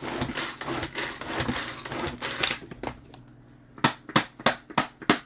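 Knife chopping fresh spinach on a cutting board: a dense crunching of leaves at first, then from about four seconds in a run of quick, even knife strikes on the board, three to four a second.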